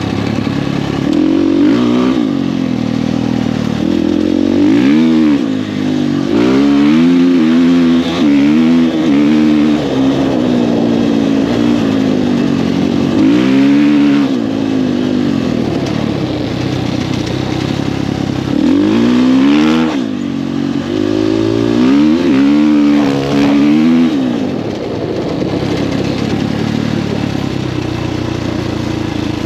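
Husqvarna FE450's single-cylinder four-stroke engine through an FMF 4.1 exhaust, revving up and down repeatedly as the bike is ridden hard: a series of throttle-ons and roll-offs, with flatter running near the end.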